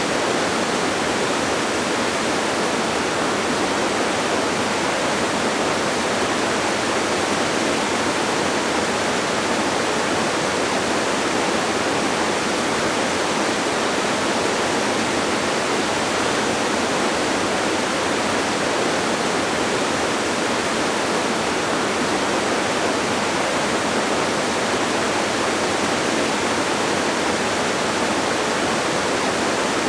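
Distant waterfall: a steady, unbroken rush of falling water, even in level throughout.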